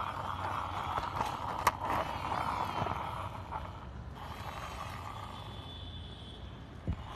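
Small plastic toy auto rickshaw's wheels rolling and scraping along a hard surface as it is pushed by hand, with a sharp click about a second and a half in and a softer knock near the end.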